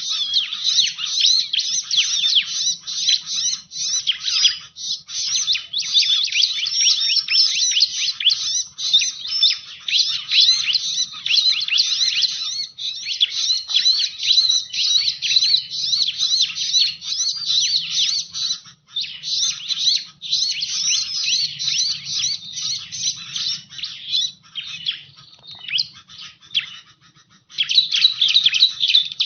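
Bar-winged prinia (ciblek) calls played as a lure recording: a dense, rapid stream of sharp high chirps with almost no gaps. The chirping thins out for a few seconds about 24 seconds in, then comes back in full near the end.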